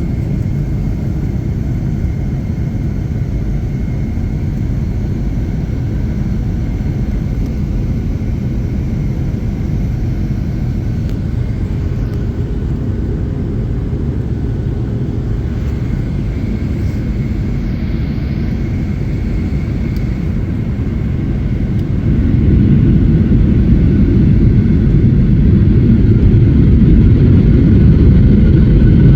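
Boeing 757-200 jet engines running with a steady low rumble and a faint high whine, stepping up clearly louder about three quarters of the way through as thrust comes up for the takeoff.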